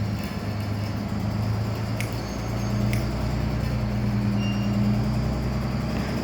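An engine running steadily at a low, even pitch, from the equipment moving a heavy load. Two sharp clicks, about two and three seconds in.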